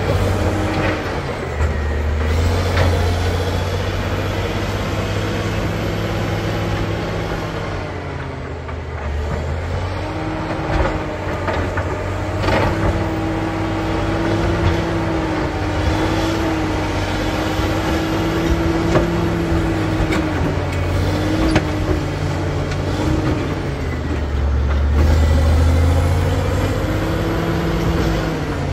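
Caterpillar D7G bulldozer's diesel engine working under varying load, swelling louder at the start and again near the end, with a whine that wavers up and down and frequent clanks and knocks.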